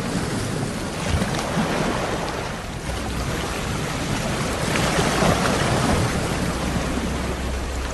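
Sea waves washing onto the shore: a steady hiss of surf that swells to a louder wave about five seconds in, over a low rumble.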